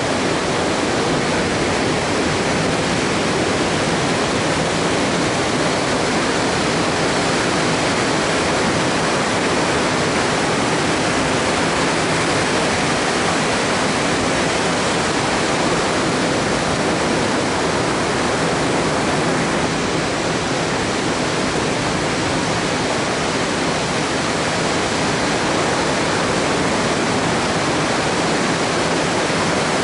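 Steady roar of ocean surf, an even rushing noise with no single wave breaks standing out.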